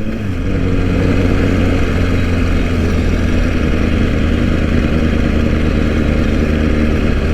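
Sportbike engine running at a steady speed while riding, its hum holding an even pitch, with a continuous rush of wind noise over it.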